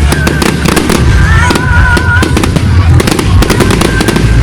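Fireworks display: a rapid, dense run of bangs and crackles over loud music with a steady bass and a wavering singing voice.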